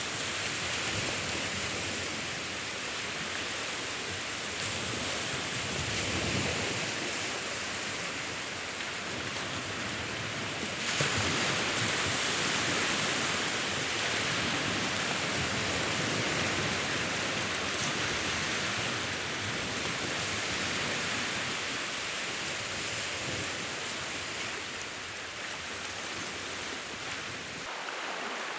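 Sea waves washing in, a steady rushing hiss that swells about six seconds in and rises again, more strongly, at about eleven seconds.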